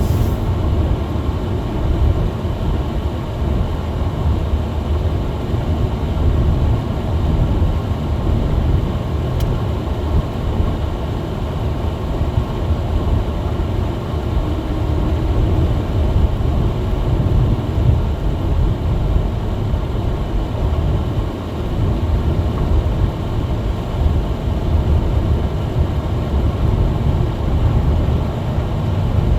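Steady low rumble of a small front-wheel-drive car driving on a snowy road, heard from inside the cabin: engine and tyre noise.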